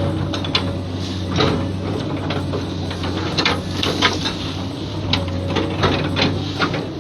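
Diesel engine of a Komatsu long-reach excavator running steadily, with irregular clanks and knocks from the working machine.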